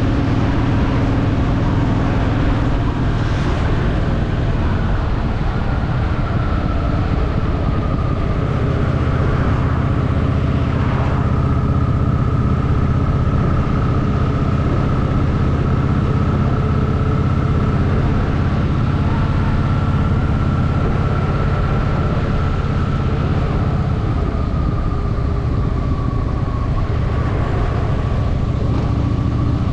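Honda Shadow VT750's V-twin engine running steadily as the motorcycle cruises, with a thin steady whine above the engine note for most of the stretch.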